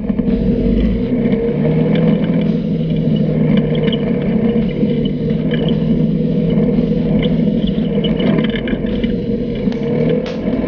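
Polaris RZR 570's single-cylinder engine running at a steady speed as the side-by-side drives along a dirt trail, easing off briefly near the end, with a few sharp clicks near the end.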